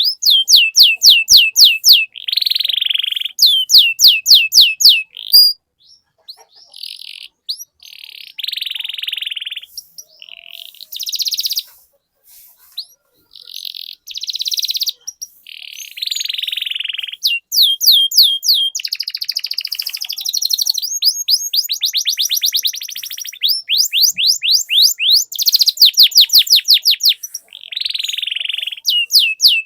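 Canary singing a long rolling song: rapid trills of repeated high notes alternating with buzzy phrases. The song breaks into shorter, sparser phrases through the middle, then dense trilling resumes.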